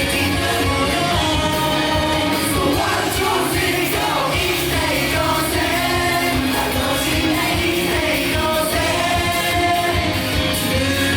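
Pop song with a sung vocal melody over a steady beat, played loud through a venue's sound system.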